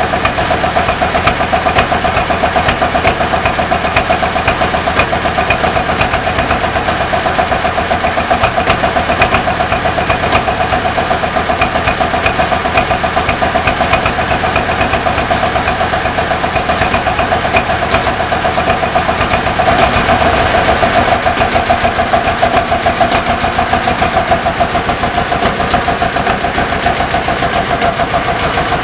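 1951 Güldner AF 20 tractor's diesel engine running steadily after a cold start in freezing weather, a little louder for a few seconds past the middle.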